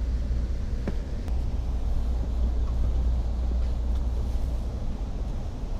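Steady low rumble of a passenger train, heard from inside the car as it rolls slowly along a station platform, with a faint click about a second in.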